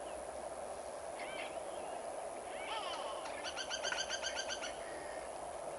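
Wild birds calling over a steady rush of river water: a few short rising and falling calls, then a fast run of clipped notes, about ten a second for about a second near the middle, the loudest part.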